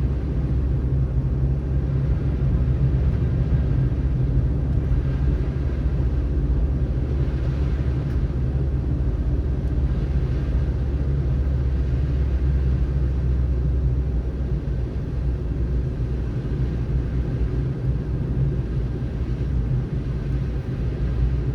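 Car driving on a snowy road: steady low rumble of tyres and engine with a hiss of road noise, swelling slightly about seven to ten seconds in.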